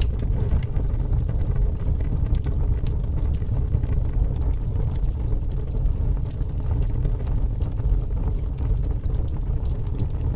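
A fire burning with a steady low rumble and scattered small crackles and pops throughout.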